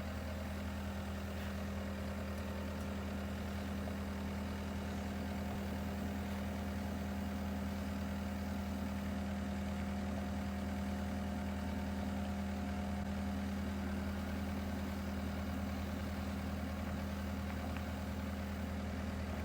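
Skid loader's diesel engine running at a steady low speed, an even hum that does not change.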